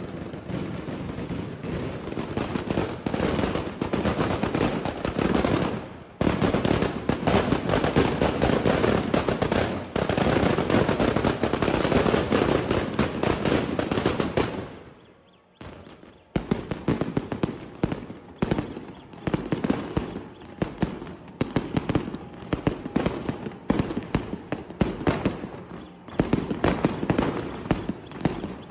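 Daylight fireworks: a dense, continuous rattle of rapid firecracker reports for about fourteen seconds, a brief near-silent pause, then volleys of quick sharp bangs start again.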